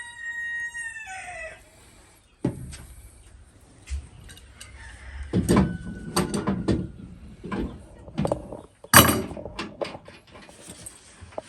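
A rooster crows once at the start: one held call that drops in pitch at its end. Then come irregular knocks and rustles of handling, the loudest a sharp clatter about nine seconds in.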